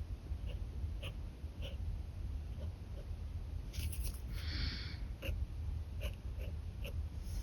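Pen nib scratching on paper in short strokes and taps, with one longer stroke about four seconds in, over a low steady rumble.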